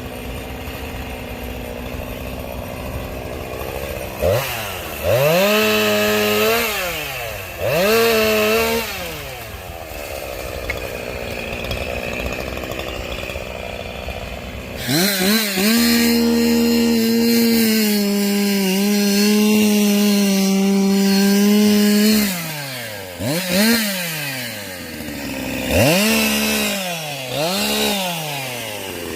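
Two-stroke chainsaw idling between throttle blips: two short revs early on, then a run at full throttle for about seven seconds from about halfway with the pitch sagging a little under load, as when cutting through oak, followed by a few more short revs.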